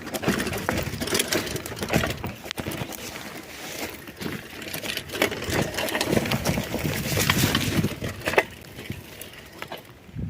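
A mountain bike ridden over a rough dirt trail: tyres crunching and the bike clattering and rattling over bumps, dropping quieter near the end.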